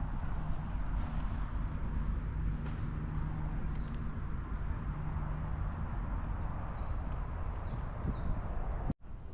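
Outdoor ambience: a short high chirp repeating evenly about twice a second over a steady low rumble. The sound drops out abruptly for an instant near the end.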